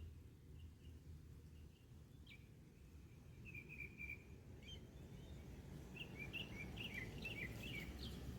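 Faint bird chirps over a low, steady background rumble: a single chirp about two seconds in, a short twittering run near four seconds, then a quick series of chirps near the end.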